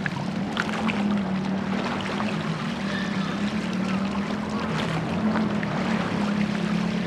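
Boat under way on the water: a steady low hum with a wash of water and wind noise, and scattered light knocks.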